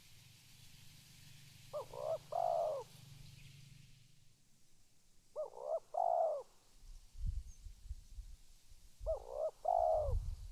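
Spotted dove cooing: three call phrases a little over three seconds apart, each a couple of short notes followed by a longer one. Low thumps come in during the second half.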